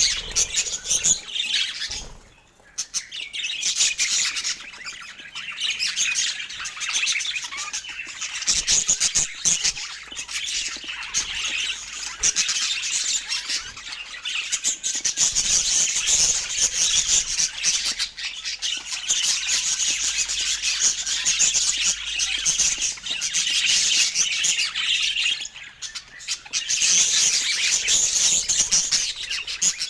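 Budgerigars chattering, with continuous rapid chirps, squawks and warbling. There are brief lulls about two seconds in and again near the end.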